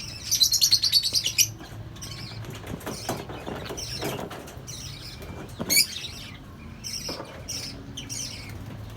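Flock of lovebirds chattering in an aviary: a rapid burst of high chatter about half a second in, then scattered short, sharp calls and chirps.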